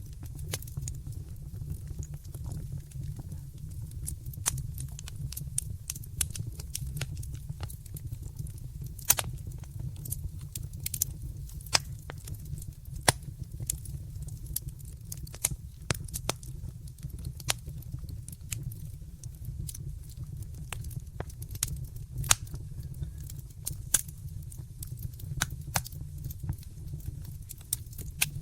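Wood fire in a fireplace crackling, with irregular sharp pops, a few louder than the rest, over a steady low rumble.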